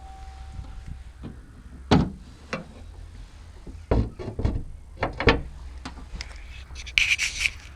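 Car bonnet being opened: a few separate clunks and knocks from the release and latch, then a short scraping squeak near the end.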